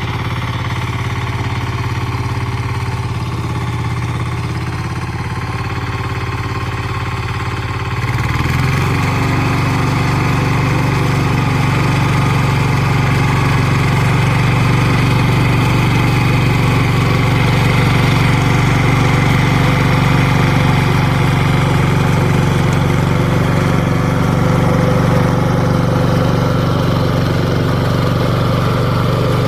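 Valpadana 4RM 180 mini tractor's Lombardini diesel engine running steadily. About eight seconds in, its note dips for a moment, then picks up and runs on louder.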